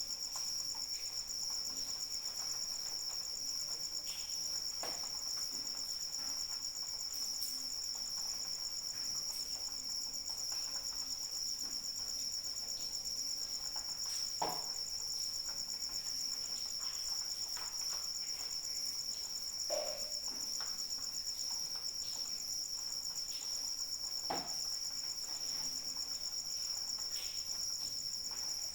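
Crickets trilling steadily in a high-pitched chorus over light rain, with a few sharper drips or taps at scattered moments.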